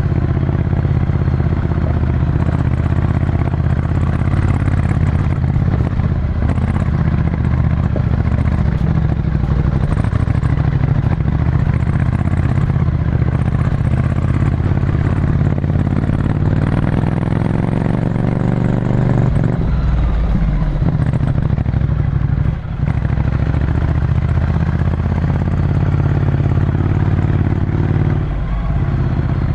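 Ducati Scrambler Desert Sled's 803 cc air-cooled L-twin running through a full Termignoni exhaust, heard from onboard while riding. The engine runs steadily under way, with a short break in the sound a little past two-thirds through and a quick drop and rise in pitch near the end.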